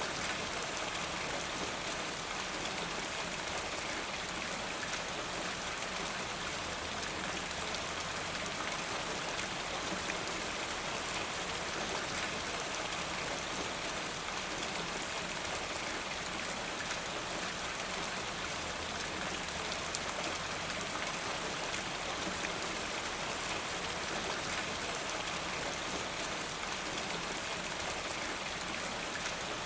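Steady rainfall, a dense even patter of raindrops on surfaces.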